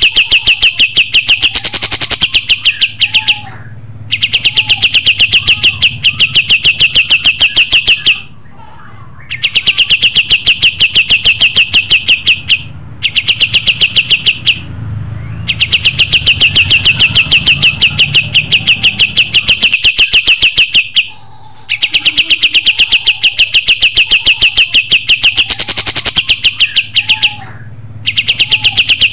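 Kapas tembak songbird singing loudly: long, very fast, even trills of high notes, each run lasting several seconds and broken by brief pauses.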